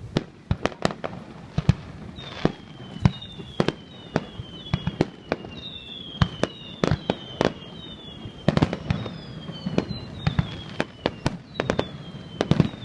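Aerial fireworks display: a rapid, continuous run of sharp bangs and pops of varying loudness, with a string of short whistles that fall in pitch laid over them from about two seconds in.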